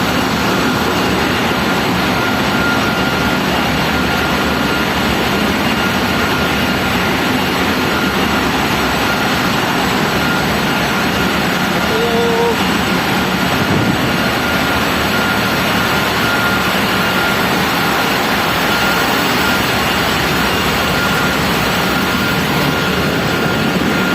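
Loud, steady din of a large engine running in an engine room, a dense roar with a faint steady whine on top.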